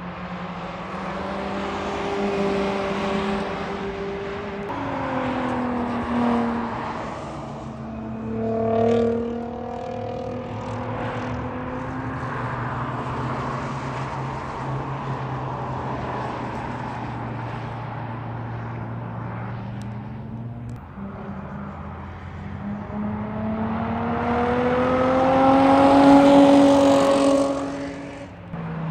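Sports car engine running hard on a race track. Its pitch steps down about five seconds in, and there is a brief louder swell near nine seconds. Late on it climbs steadily in pitch and loudness as it accelerates, then falls away sharply near the end.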